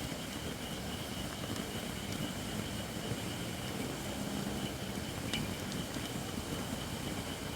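Wood fire of under-seasoned Japanese white oak logs burning with a steady hiss and low rumble, the hiss coming from moisture still in the wood. One crackle pops about five seconds in.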